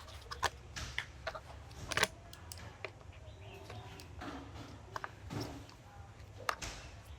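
Irregular light clicks and knocks from hand work with tools and plastic parts, about a dozen scattered through, over a faint steady low hum.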